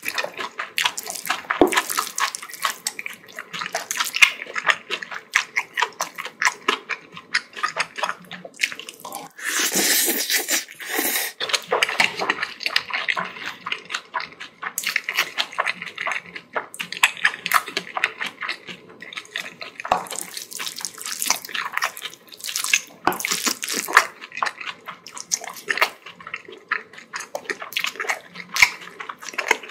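Close-miked wet chewing and mouth sounds of someone eating bibimbap: a dense run of smacks and clicks, with a louder, noisier stretch about ten seconds in.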